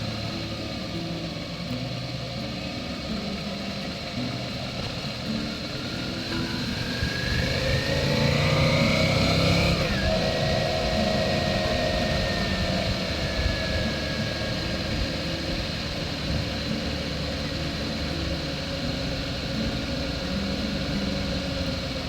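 Motorcycle engine running on the road, its note climbing over a few seconds and then dropping sharply about ten seconds in.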